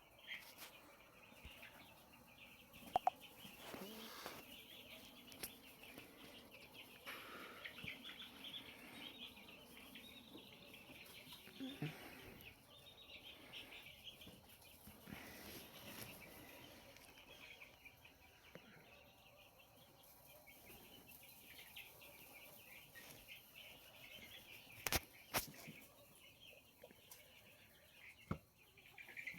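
A flock of 20-day-old semi-native (neem gavran) chicks peeping continuously, many high cheeps overlapping. A few sharp clicks stand out, about three seconds in and twice near the end.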